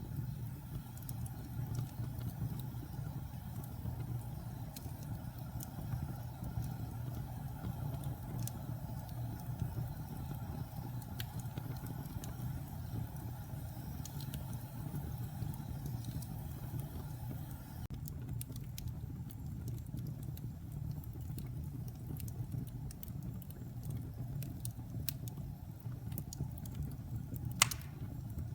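Wood fire burning in a fireplace: a steady low rumble of the flames with scattered small crackles, and one louder pop near the end.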